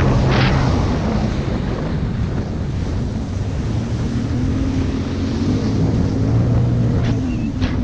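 Jet ski engine running under way on open water, with wind buffeting the microphone and water rushing past; the engine pitch rises briefly about five seconds in, and sharp splashes of spray come at the start and near the end.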